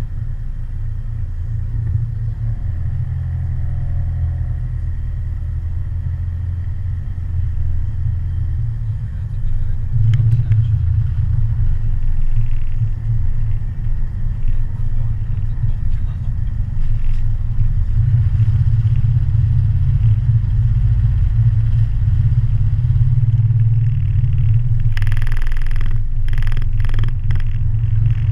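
Low, steady rumble of a vehicle on the move, growing louder about ten seconds in, with a brief burst of clatter near the end.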